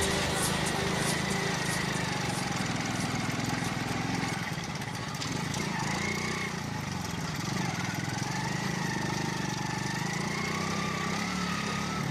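Motorcycle engine running steadily, with a faint whine that drifts up and down in pitch.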